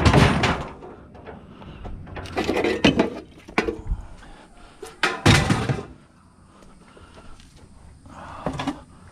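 Rusty scrap metal pieces thrown onto a pile of scrap, clanking and crashing in a series of separate impacts, the loudest a little after five seconds in.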